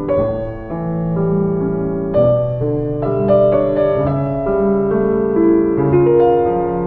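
Gentle background piano music: a slow melody over sustained chords.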